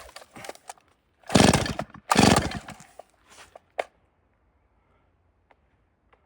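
Stihl 034 two-stroke chainsaw being pull-started: three quick pulls on the starter cord about a second apart, the engine not yet running.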